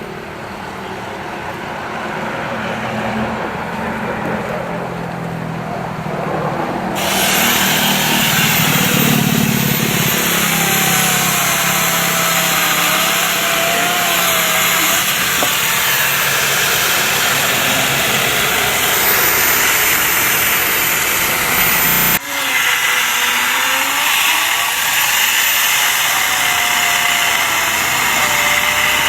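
Bosch angle grinder fitted with a mini chainsaw attachment, running and cutting into tree branches, its pitch wavering as the chain bites. It gets much louder about seven seconds in and breaks off abruptly around twenty-two seconds before carrying on.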